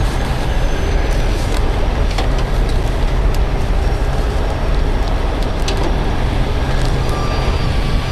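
Heavy diesel truck engine running steadily with a deep rumble, with a few light clicks and knocks scattered over it.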